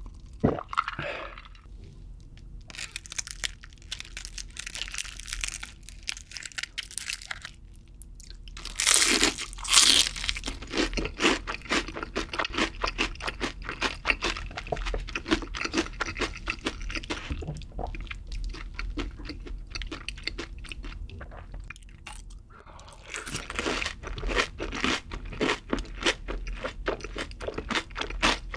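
Close-miked biting and chewing of crispy fried chicken: a loud crunchy bite about nine seconds in, then rapid crunching chews. There is a brief lull, then more crunching near the end.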